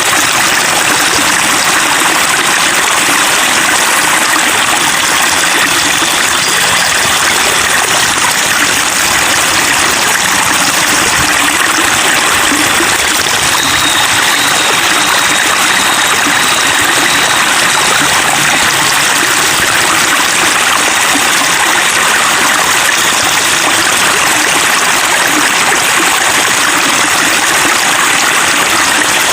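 Continuous babbling of flowing water, a steady, even trickling and splashing with no pauses.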